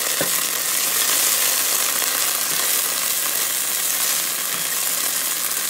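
Diced onions, minced garlic and tomato paste sizzling steadily in hot oil in a nonstick pot as they are stirred with a spatula.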